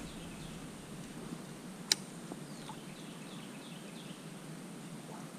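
A bird calling in a quick run of short, falling chirps a few seconds in, over a faint steady low rumble. A single sharp click about two seconds in is the loudest sound.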